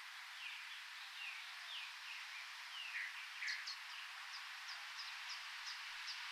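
Birds calling over a steady background hiss. First comes a run of short falling notes, then from about halfway a quick series of high chips, several a second.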